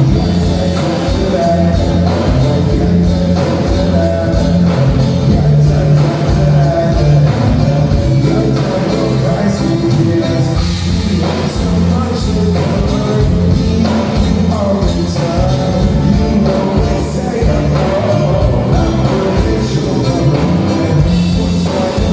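Live band music with a singer: bass, drums and guitar playing a steady beat through a PA system.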